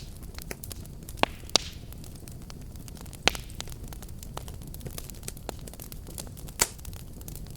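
Wood fire burning in a fireplace: a steady low rumble of flames with constant crackling and a few loud sharp pops, the strongest about three seconds in and near the end.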